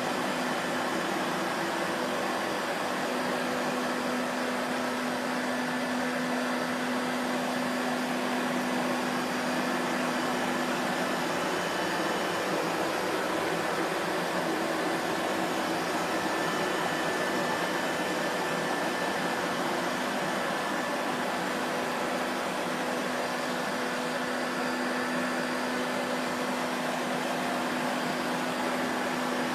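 Vacuum cleaner running continuously: a steady motor hum over a broad rushing noise, the hum wavering and fading for a few seconds about halfway through before settling again.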